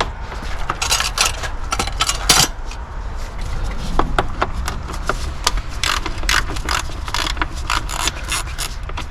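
Socket ratchet wrench clicking in short, irregular strokes as a bolt is worked during a starter replacement.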